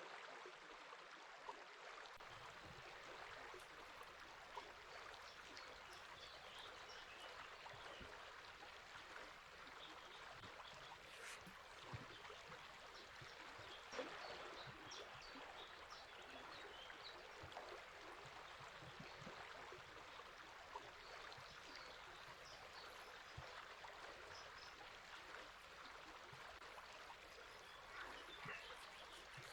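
River water running steadily, with faint, short bird calls scattered throughout.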